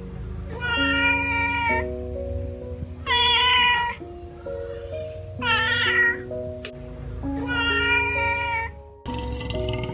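Domestic cat meowing four times, each meow about a second long, over background music with a simple melody. Just before the end the meows stop and a different, rougher sound starts.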